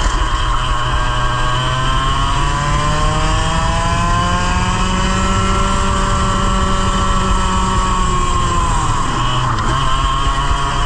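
100cc two-stroke kart engine at race pace, its revs climbing slowly for several seconds, holding, then falling away near the end as the kart slows, and starting to climb again.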